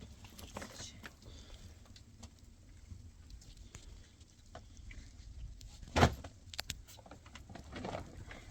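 Scattered small clicks and knocks over a low steady rumble, with one sharp, loud knock about six seconds in followed by a few lighter ticks.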